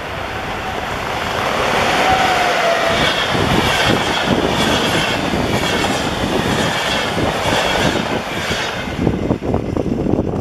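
Passenger train passing close by at speed, a loud steady rush with its wheels clattering in a quick rhythm over the rail joints.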